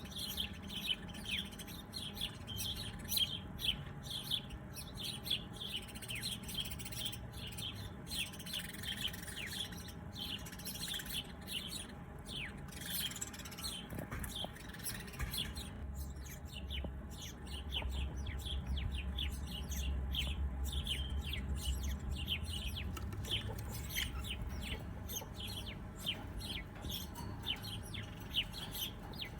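Small birds chirping: a dense, continuous run of short, quick, falling chirps. A low rumble sits underneath for several seconds past the middle.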